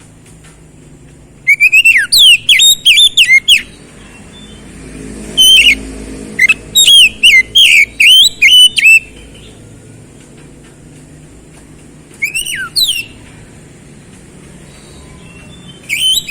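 Oriental magpie-robin (kacer) singing: loud, rapid phrases of sharp whistled notes that sweep up and down. The song comes in separate bursts, two long ones, a short one, and another starting near the end, with pauses between.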